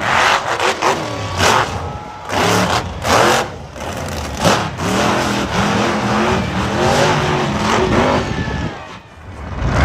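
Monster truck engine revving hard in repeated throttle bursts, its pitch rising and falling. It drops off briefly near the end, then comes back loud.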